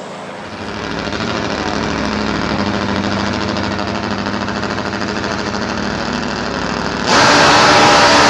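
High-performance car engine running steadily, then suddenly much louder for just over a second near the end.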